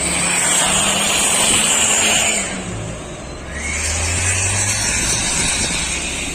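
Truck engine with loud road and tyre noise as heavy traffic goes by. The sound dips briefly about halfway through, then the engine note swells again.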